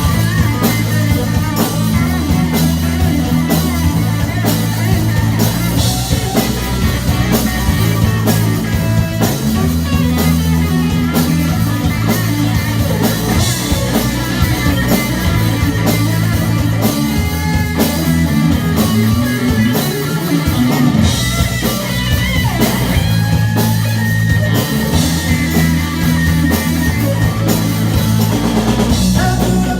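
Live rock band playing: electric guitars, bass guitar and drum kit, loud and continuous, with steady cymbal hits and sustained bass notes.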